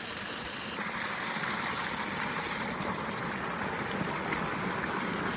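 Mountain creek water rushing over rocks: a steady, even roar of flowing water that grows a little fuller about a second in.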